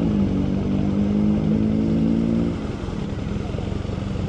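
Motorcycle engine running at a steady speed, its level dropping about two and a half seconds in.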